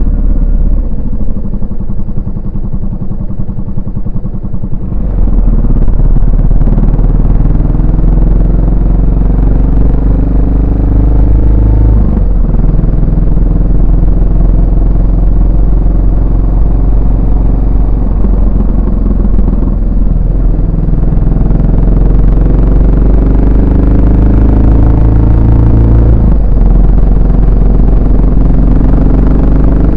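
Yamaha SR400's single-cylinder four-stroke engine and exhaust running under way. It is quieter for the first few seconds, then about five seconds in it pulls harder with the revs climbing. The revs drop back sharply twice, around twelve and twenty-six seconds in, as it shifts up.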